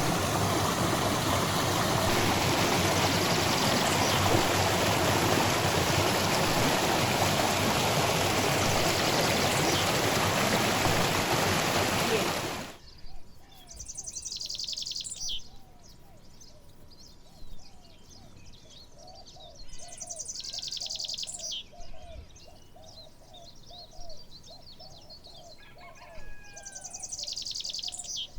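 A steady, loud rushing noise for about the first half, cut off suddenly. Then a quieter outdoor scene follows: birds give a quick run of repeated chirps, with three short high buzzing trills a few seconds apart.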